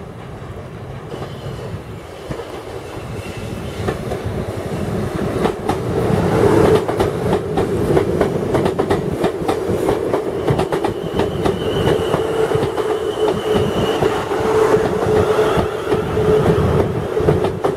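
South West Trains Class 450 Desiro electric multiple unit arriving at a platform. Its rumble grows over the first several seconds as it approaches, then the carriages pass close by, with wheels clicking over rail joints and a steady whine.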